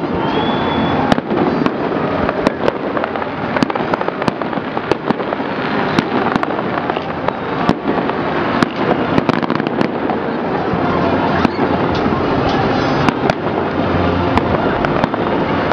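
Fireworks display: aerial shells bursting in many sharp bangs at irregular intervals, over a continuous dense background noise.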